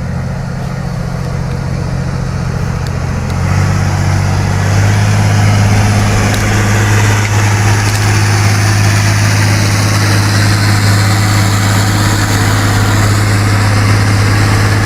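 An off-road truck's engine running steadily, growing louder about four seconds in and then holding even.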